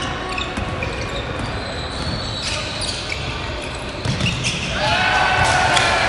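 Basketball bouncing on a gym floor during play, in an echoing hall, with voices that grow louder near the end.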